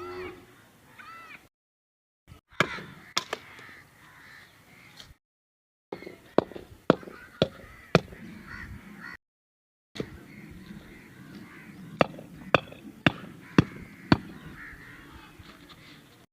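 Runs of sharp knocks, about two a second, broken off by several abrupt cuts, with crows cawing in the background.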